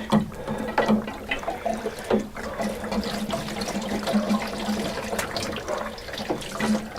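Diesel being poured into a diesel heater's fuel tank: a steady pour of liquid running into the container.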